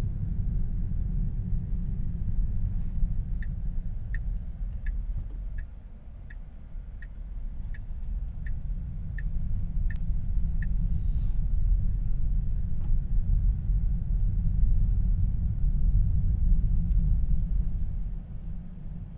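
Cabin rumble of road and tyre noise in a Tesla Model 3 driving along, with no engine sound since the car is electric. The rumble drops quieter about six seconds in, then builds again. A short high tick repeats about every 0.7 s, ten or so times, between about three and eleven seconds in.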